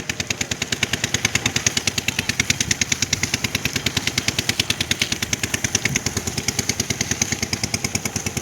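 A small engine running steadily, its beats coming evenly at about nine a second.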